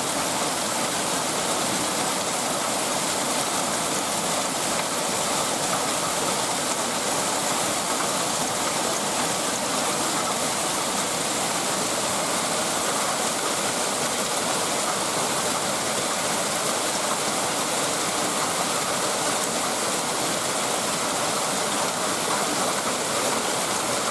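Heavy thunderstorm downpour: torrential rain falling in a loud, steady rush, with no thunderclaps.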